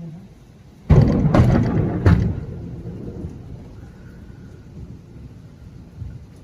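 Thunder: a sudden loud crack about a second in, two more sharp cracks within the next second, then a low rumble that slowly dies away.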